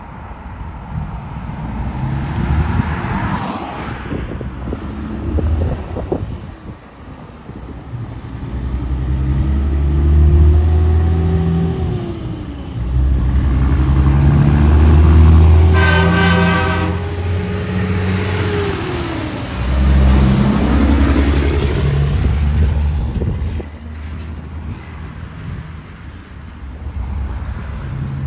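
Heavy diesel trucks passing close by one after another, each engine and its tyre noise swelling and fading. About halfway through, one gives a short air-horn blast.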